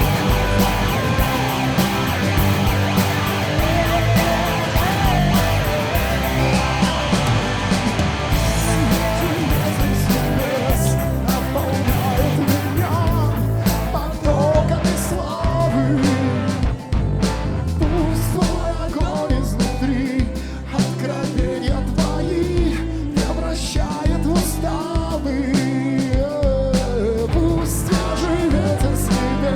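Church worship band playing a rock-style song, with drum hits that become more distinct about halfway through.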